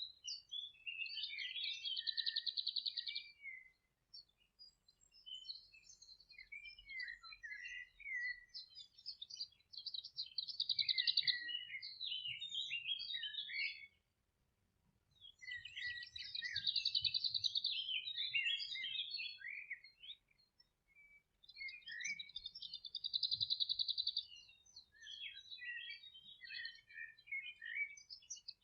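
Songbird singing in phrases a few seconds long, separated by short pauses. Each phrase is a high twittering run, most of them with a buzzy trill.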